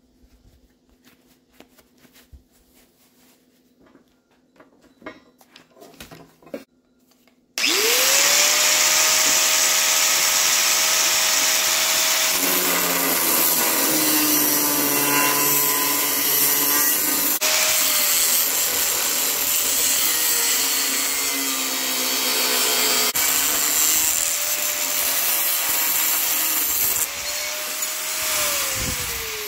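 Faint clicks and handling for about seven seconds, then a handheld electric grinder starts abruptly. Its motor whine rises to speed, dips in pitch now and then as it works on steel rebar, and begins to wind down near the end.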